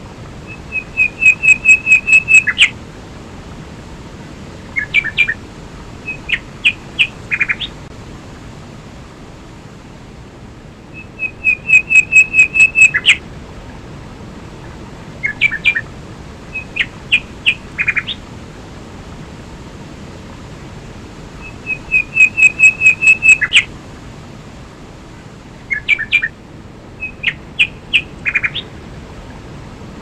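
A songbird singing the same song three times, about ten seconds apart: a fast run of about eight high, even notes, then a few short chirps. Underneath is the steady rush of a waterfall.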